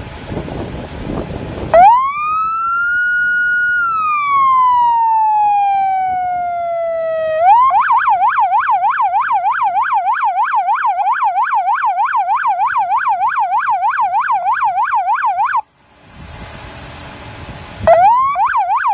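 Code 3 electronic police siren on a police car: a slow wail that rises, holds and falls, then switches to a fast yelp of about three cycles a second, and cuts off suddenly. Near the end it starts again briefly with a short rising sweep.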